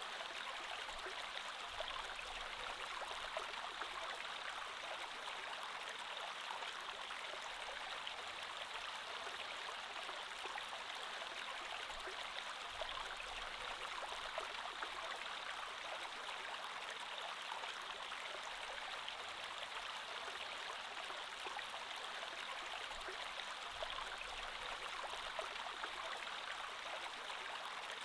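A creek flowing steadily, an even rush of water with small splashes and gurgles over it.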